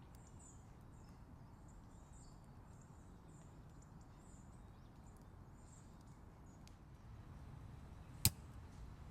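Faint, steady low outdoor background with small high ticks, and a single sharp crack about eight seconds in.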